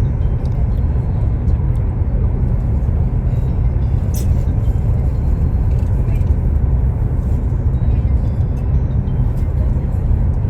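Steady low rumble of a moving passenger train, heard inside the carriage, with one brief sharp click about four seconds in.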